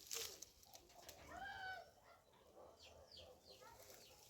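Faint bird sounds: one short arched call, then a few quick high chirps.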